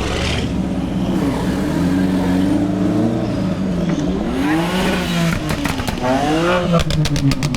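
Car engine running at idle and revved twice, the pitch rising and falling each time, with a quick run of sharp cracks near the end.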